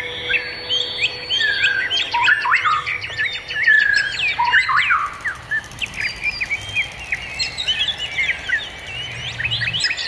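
Several songbirds chirping and calling at once: many short whistled notes that glide up and down, overlapping thickly in the first half, thinning out, then picking up again near the end.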